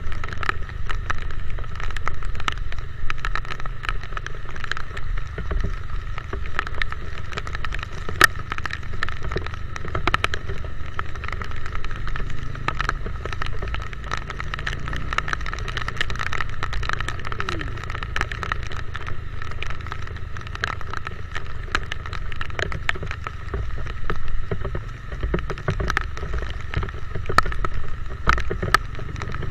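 Motorcycle riding in the rain: a steady low rumble of wind and road with frequent sharp taps of raindrops hitting the microphone.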